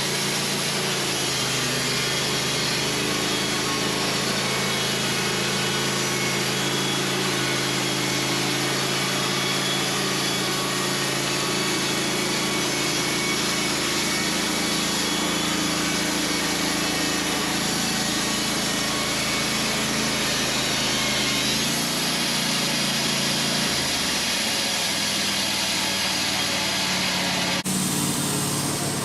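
Wood-Mizer LT15 band sawmill running steadily as its blade cuts through a larch log, with a change in the motor's tone about 22 seconds in.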